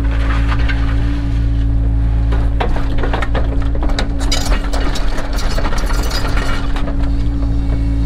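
Cat 307 excavator's diesel engine running at a steady drone. From about two and a half to seven seconds in there are irregular clicks, clinks and scraping over it.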